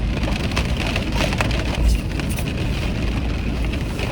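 Light rain pattering steadily on the car, with scattered drops ticking.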